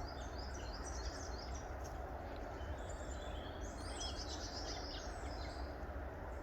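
Small songbirds twittering, a rapid run of short high chirps from several birds at once, over a steady low rumble.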